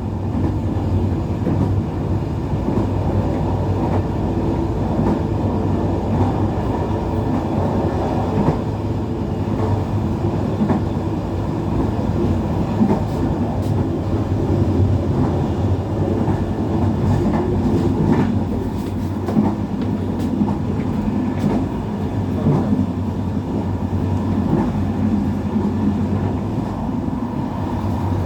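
Passenger train running along the track, heard from inside the carriage: a steady low rumble of the wheels and running gear, with a few faint clicks scattered through it.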